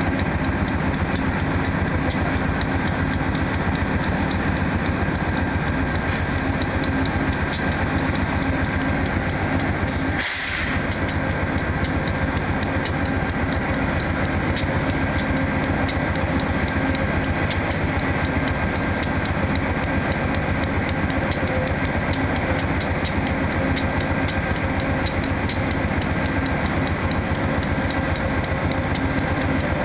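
VIA Rail P42DC diesel locomotive idling steadily with a constant engine hum. About ten seconds in there is a short hiss.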